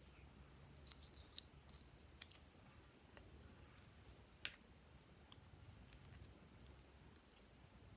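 Faint, scattered sharp clicks and pops from glossy slime being mixed, about seven in all, with the loudest about halfway through.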